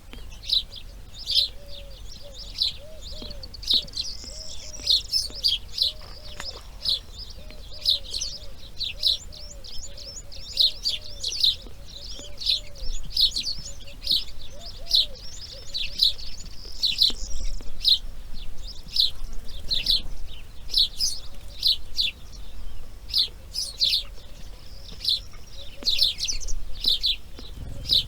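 Birds calling: short, high chirps repeated about twice a second, with a fainter series of lower, arched calls running beneath them.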